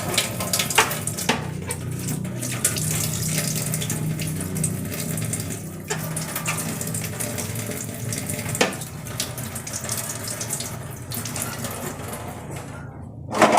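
Kitchen tap running into a sink while things are washed under it, with a few sharp knocks of items against the sink. The running water stops near the end.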